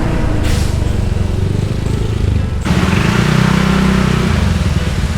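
Motorbike engine running under way, with wind and road hiss over it. About two and a half seconds in the hiss drops away and a steady engine hum comes through for a second or two.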